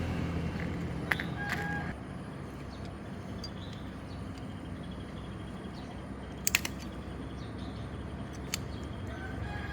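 The Sirius RC car's engine running with a steady low hum that cuts off about two seconds in. A few sharp clicks follow over low background noise.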